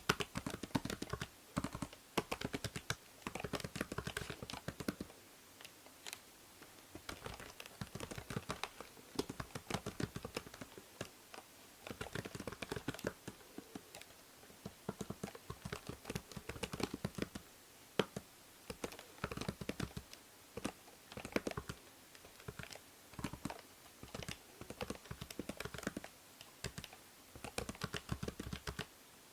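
Computer keyboard typing in bursts of rapid keystrokes with short pauses, picked up close by a binaural microphone over a faint steady hiss.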